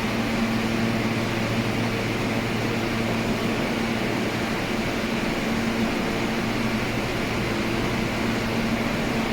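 Steady mechanical hum and rushing air from subway equipment in the station, with a few held low tones and no sudden sounds.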